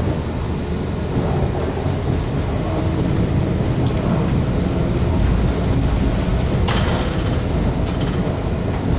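Passenger train running along the track, heard from on board: a steady low rumble of wheels and rails, with two sharp clicks, about four seconds in and near seven seconds in.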